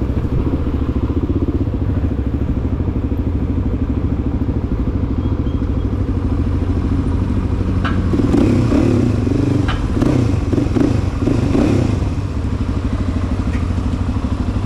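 Dirt bike engine running at low speed while rolling slowly, with a steady pulsing beat. A louder, uneven patch of sound joins it for a few seconds past the middle.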